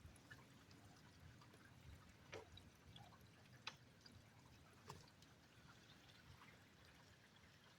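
Faint rain, with scattered sharp ticks of single drops landing about two and a half, three and a half and five seconds in.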